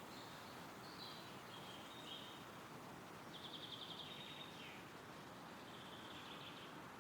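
Calm wind rustling through trees, with a small bird singing short high phrases over it, including a rapid trill of repeated notes about three seconds in.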